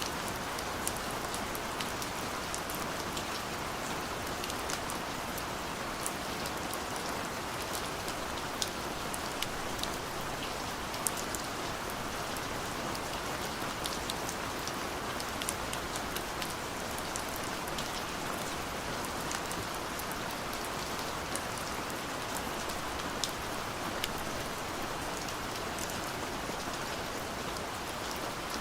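Steady rain falling, with many separate drops ticking sharply on a hard surface over the even hiss of the downpour.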